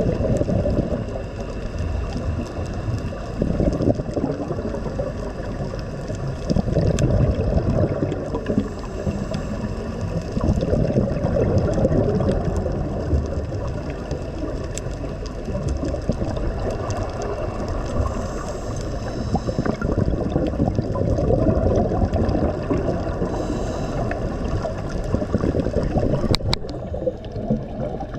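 Water gurgling and sloshing with a low, churning rumble, its sound mostly low-pitched and muffled.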